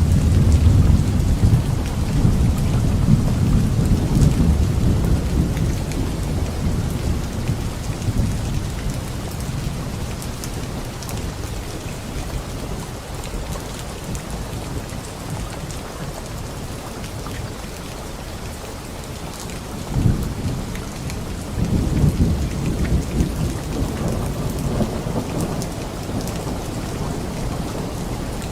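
Steady rain with rolling thunder. A long low rumble at the start fades away; about twenty seconds in comes a sudden clap, followed by more rumbling.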